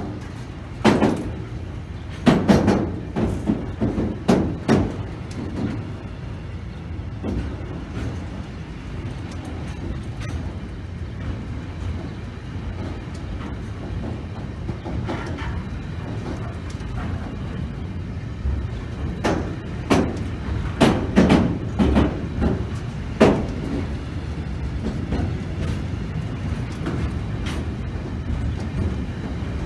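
A train running through the station: a steady low rumble with clusters of sharp clanks and knocks, first in the opening seconds and again about twenty seconds in.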